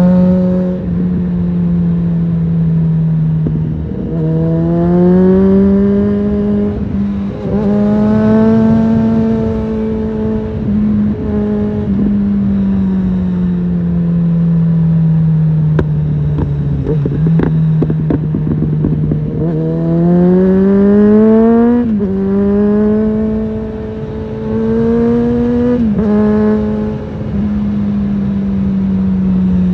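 Suzuki GSF650 Bandit's inline-four engine through an aftermarket Storm exhaust, pulling up through the gears: the pitch climbs, drops sharply at each upshift, and climbs again. In the middle it winds down slowly as the throttle is eased off, then pulls hard again through two more shifts.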